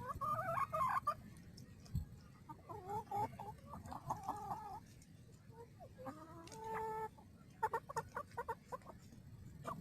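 Chickens clucking and calling as they feed, in several runs of calls, with a quick series of short pecking or tapping clicks near the end.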